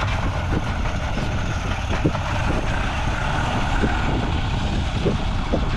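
Small motorboat's engine running steadily under way, loud and close, with wind on the microphone. The engine noise swells up right at the start, then holds steady.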